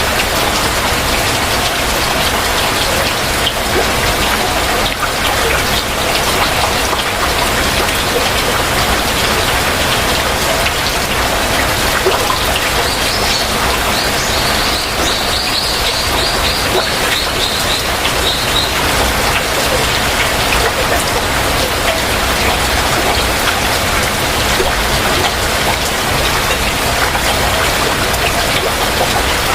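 Heavy rain falling steadily. About halfway through, a bird gives a rapid run of high chirps lasting about five seconds.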